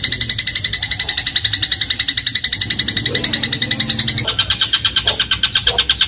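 Eurasian tree sparrow (burung gereja) giving a fast, unbroken chatter of sharp chirps, about ten a second. A little past halfway the chirps shift to a lower, fuller note and carry on at the same pace.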